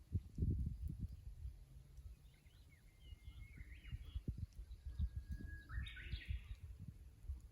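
Japanese bush warbler singing its "hoo-hokekyo" song about five seconds in: one held whistle followed by a quick warbled flourish, with a few shorter bird chirps a couple of seconds before. Under it is an irregular low rumbling and thumping, loudest near the start.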